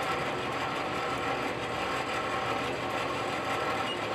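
A machine running steadily: an even whirring hum with faint held tones and no changes.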